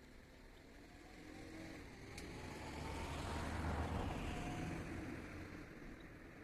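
A motor vehicle passing by: engine and tyre noise swells to a peak about four seconds in, then fades away.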